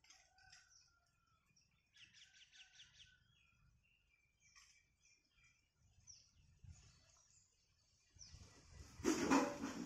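Small birds chirping faintly, with a quick run of about six repeated notes about two seconds in. Near the end comes a louder, brief rush of noise.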